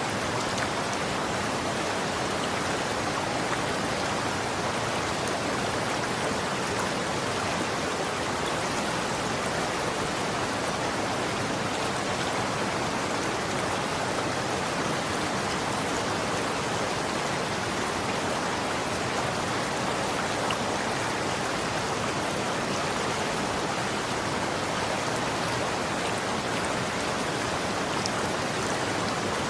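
Running water flowing steadily, a continuous even rushing hiss.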